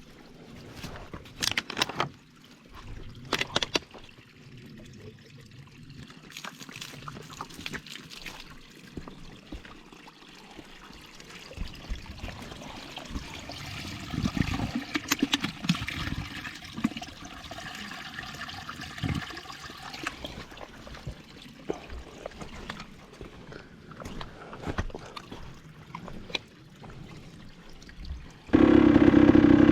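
Water running and trickling from a village drinking fountain, with a few sharp knocks in the first few seconds. Near the end a motorcycle engine suddenly comes in loud and keeps running.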